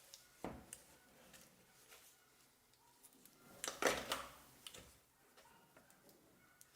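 Light clicks and knocks of blender parts and tools being handled during disassembly, with a knock about half a second in and a louder brief clatter about three and a half seconds in.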